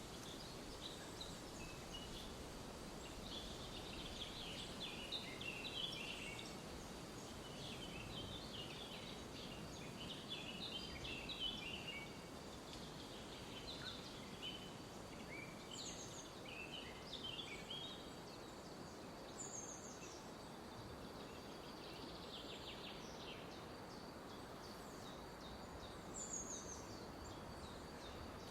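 Forest ambience: small songbirds chirping and twittering in quick clusters, with a few short, high, downward-sliding calls, over a soft steady background noise.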